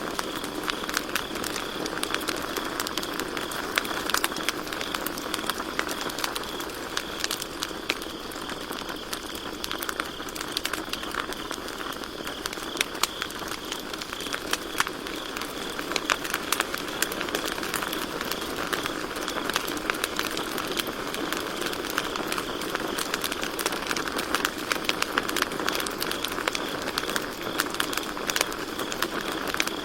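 Campfire crackling and popping over a steady low hiss, with crickets trilling on one steady high note behind it.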